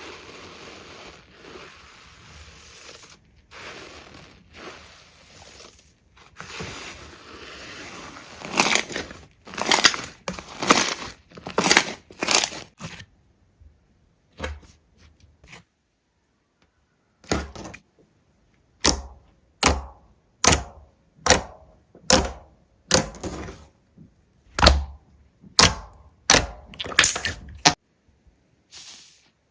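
Hands working a big slime: a sticky, crackling squish for the first several seconds, growing louder, then after a short pause a run of short, sharp squelches about once a second.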